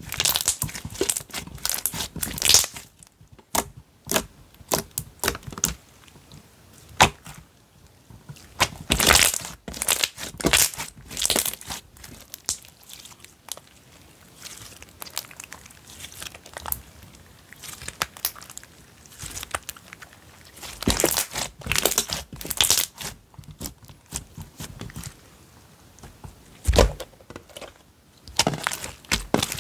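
Slime being squeezed and stretched by hand, giving irregular clusters of crackling and popping clicks with quieter stretches between.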